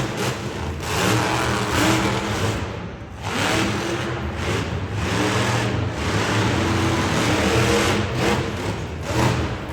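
Monster truck engines, supercharged V8s, revving hard, their pitch rising and falling as the throttle opens and closes, with a brief drop about three seconds in.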